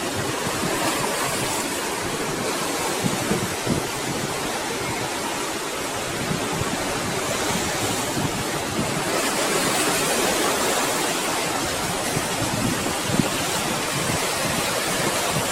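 Ocean surf washing steadily onto the shore, swelling and easing, with wind rumbling on the microphone.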